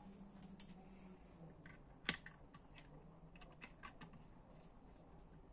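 Scattered light clicks and taps of small metal engine parts being handled, about eight in all, the loudest about two seconds in: a piston pin and needle roller bearing on the workbench.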